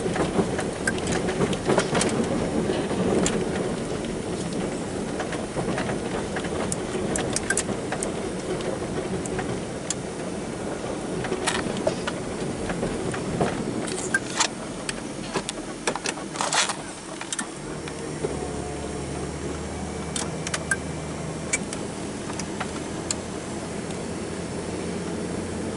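An engine running under a rumbly noise with scattered sharp clicks and knocks. About two-thirds of the way through, the noise drops back and a steady low hum carries on.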